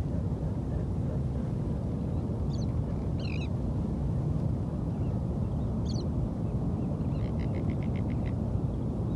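Birds give several short high calls over a steady low rumble. Near the end comes a quick run of about eight call notes in a second.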